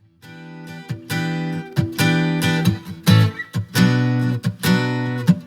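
Acoustic guitar strumming chords in a steady rhythm, the instrumental intro of a song.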